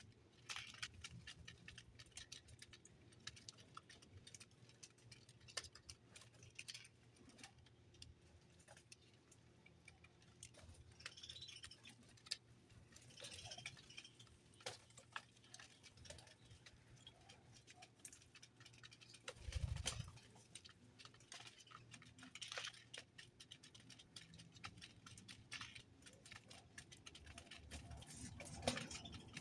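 Faint, scattered clicks and taps of small birds pecking and moving about at a feeder, with a few faint high chirps and a soft low thump about twenty seconds in.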